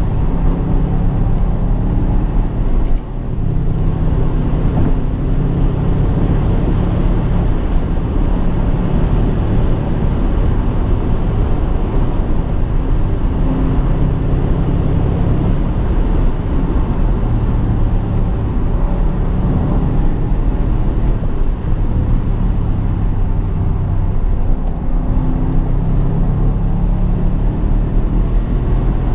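BMW 650i's V8 engine running under way, with steady road noise. The engine note rises and falls as the car drives, with a brief drop in level about three seconds in.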